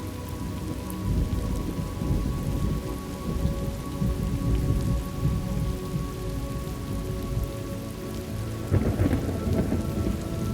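Thunderstorm ambience: steady rain with thunder rumbling low throughout, and a louder thunder crack about nine seconds in.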